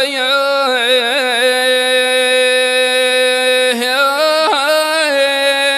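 A solo voice singing al-wanna, the traditional Omani sung poetry, holding one long drawn-out note with short ornamented turns about a second in and again around four seconds in.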